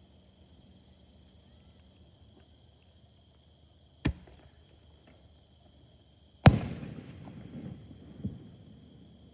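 Aerial firework shells bursting: a sharp bang about four seconds in, then a louder bang a couple of seconds later followed by crackling that dies away over about two seconds, with one more pop near the end. Insects keep up a steady high chirr throughout.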